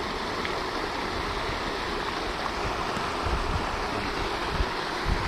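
Steady rushing splash of a pond fountain spraying onto the water, with low wind buffeting on the microphone in the second half.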